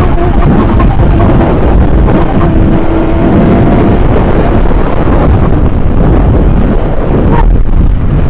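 Sport motorcycle running at speed under heavy wind roar on the microphone. A steady engine note is heard for the first few seconds, then sinks into the wind noise. The sound changes abruptly near the end.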